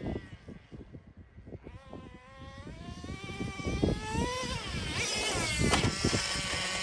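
Nitro RC truck's small two-stroke engine revving: its pitch sinks and it grows fainter in the first seconds, then it climbs in pitch and gets louder from about the middle on as the truck speeds up again. Wind buffets the microphone throughout.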